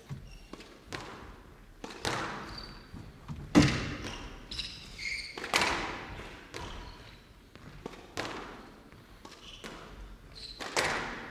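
Squash rally: the ball struck by rackets and hitting the walls, a sharp knock roughly every second, with squeaks of court shoes on the floor in between.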